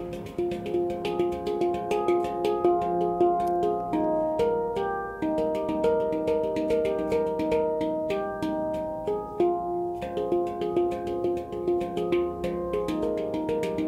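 F minor handpan played with the hands: a steady flow of struck, ringing notes, several a second, with overlapping sustain.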